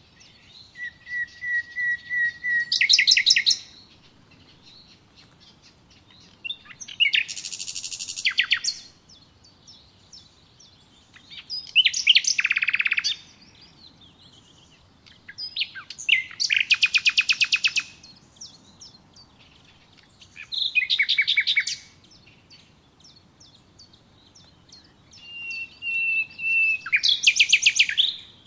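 A songbird singing six short, rapid song phrases, one about every four to five seconds, with quiet gaps between them. Several phrases open with a steady whistled note and break into a fast trill.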